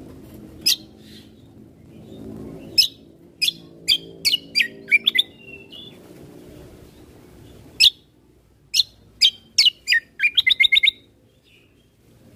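Kecial kombo (cucak kombo) songbird calling in sharp, brief chirps that sweep down in pitch, some single and some in quick runs, with a fast series of about six notes past the middle. A faint low hum lies underneath.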